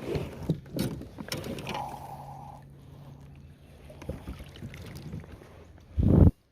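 Clicks and knocks of handling on board a fishing kayak, over a faint steady low hum, ending in a loud dull thump about six seconds in.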